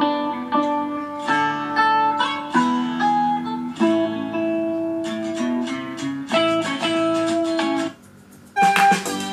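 Guitar-led instrumental music playing through an Oontz Angle 3 portable Bluetooth speaker. About eight seconds in the music cuts out for half a second and a different track starts.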